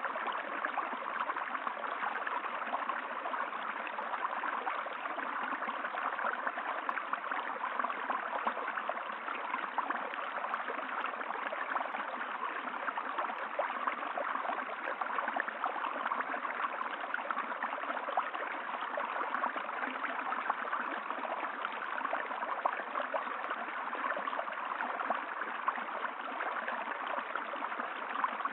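Running water flowing steadily, an even rushing sound with no breaks.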